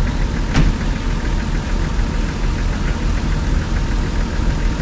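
Steady low engine rumble, like an engine idling, with faint regular ticking and one sharp click about half a second in.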